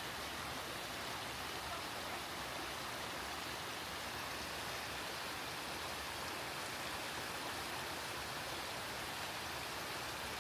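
Steady rain falling in forest, an even hiss with no distinct drops or other events.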